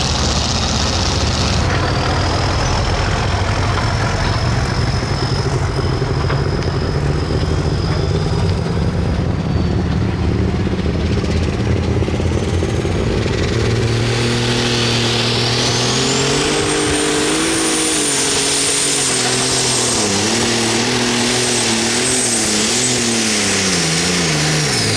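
Super stock pulling tractor's turbocharged diesel engine running flat out under load down the track, with a high whine above the engine. In the last ten seconds the engine note wavers and then falls away near the end as the pull finishes.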